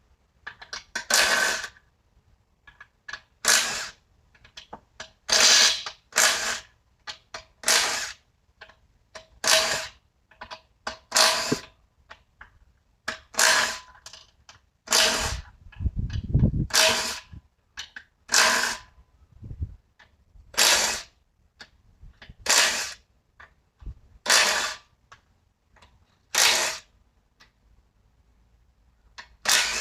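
Impact wrench run in short rattling bursts, each about half a second long, every second or two, as the transmission's bolts are worked.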